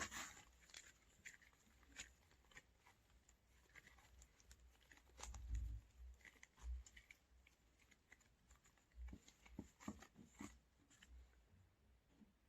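Oreo-themed slime being squeezed and poked by hand: faint sticky clicks and crackles at irregular intervals, with a few soft low thumps about five to seven seconds in.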